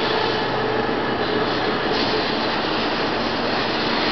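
Taiwan High Speed Rail 700T electric trainset slowing as it pulls into the station: a steady rush of wheels and running gear passing close by, with a faint steady hum underneath.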